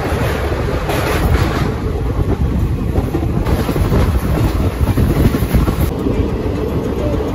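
Express passenger train running at speed, heard from an open coach door: a steady rumble and clatter of the wheels on the rails.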